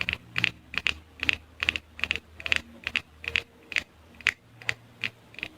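A steady series of light, crisp taps at about two and a half a second, starting suddenly, made close to the microphone as an ASMR trigger sound.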